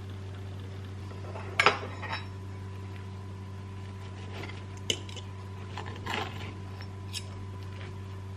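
Dishes and cutlery clinking and knocking a handful of times, the sharpest clink about a second and a half in, over a steady low electrical hum.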